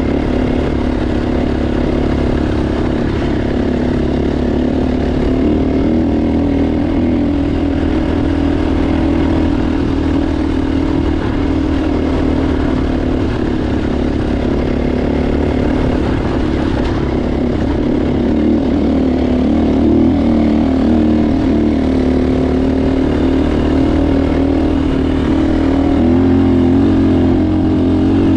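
Motocross motorcycle engine running steadily under way, its pitch wavering a little as the throttle shifts.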